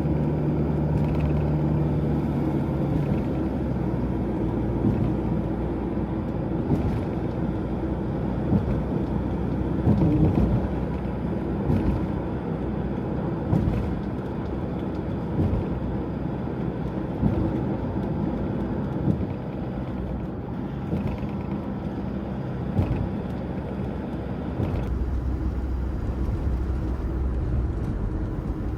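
Toyota HiAce van driving: steady engine and road rumble, with a few light knocks and a shift in the low rumble near the end.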